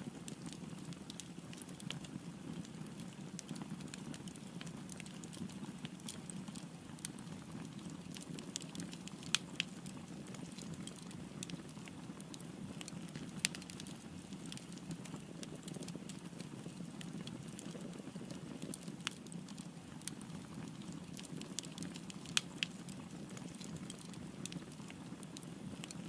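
Burning wood fire crackling: a steady low rush of flame with irregular sharp pops and snaps, a few of them louder than the rest.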